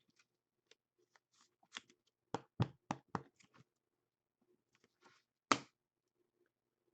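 Trading cards and plastic top loaders being handled and set down on a table: a quick run of light taps and clicks about two seconds in, and one more sharper tap a few seconds later.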